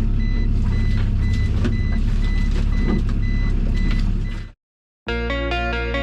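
Small boat's engine running steadily with a repeating electronic beep about two or three times a second, a warning or alarm beeper on board. It cuts off about four and a half seconds in, and after a brief silence background music begins.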